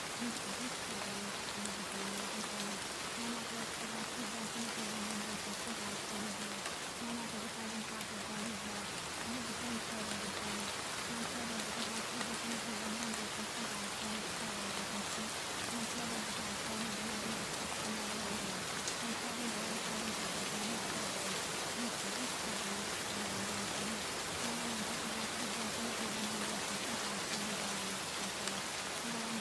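Steady rain recording, an even hiss of rain falling on a surface. Beneath it runs a faint low murmur that breaks on and off, like a quiet buried voice track.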